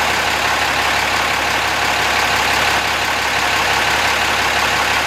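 An engine running steadily at idle, a loud, even sound with no change in speed.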